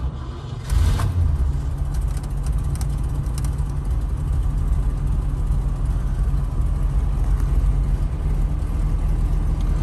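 The aluminium Rover V8 of a 1974 MGB GT V8, already hot, catches about a second in and then idles steadily at a low idle, heard from inside the cabin.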